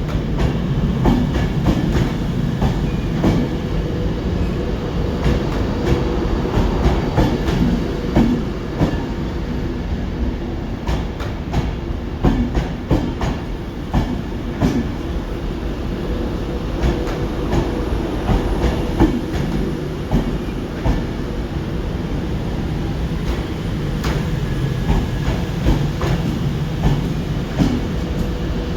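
Train moving along the track with a steady rumble and frequent clicks of wheels running over rail joints.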